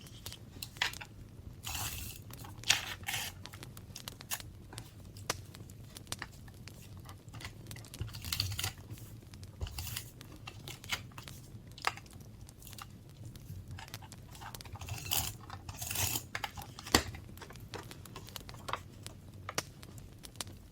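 Paper being handled and torn in short rustling stretches, with many small taps and clicks in between.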